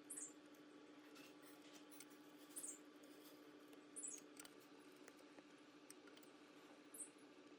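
Near silence: a faint steady hum, with four brief high chirps that slide downward in pitch, spread a couple of seconds apart.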